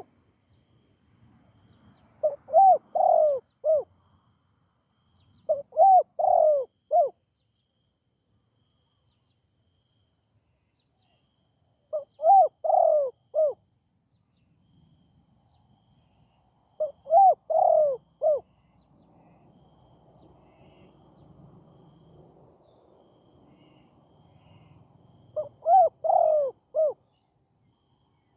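Spotted dove cooing: five short phrases of about four arched coos each, spaced several seconds apart.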